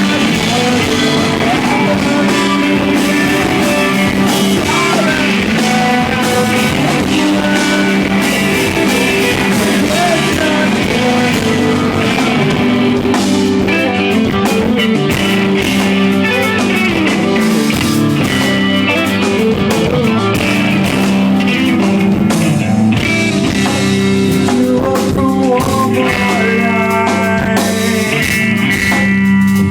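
Live rock band playing loud and steady, with guitar prominent, recorded from the room on an iPod.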